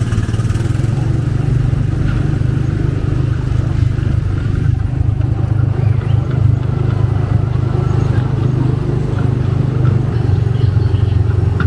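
Small gasoline engine of a Tomorrowland Speedway car running steadily, a continuous low drone.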